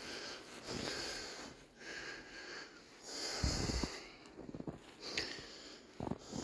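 A person breathing heavily and sniffing in hissy breaths, with a couple of low thumps against the microphone about halfway through and near the end.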